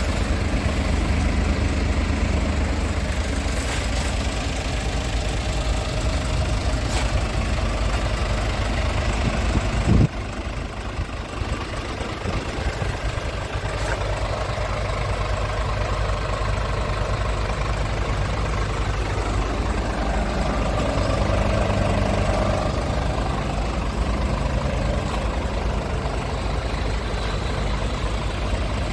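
Scania S tractor unit's engine idling steadily. About ten seconds in there is a single loud thump, after which the engine sound is slightly quieter.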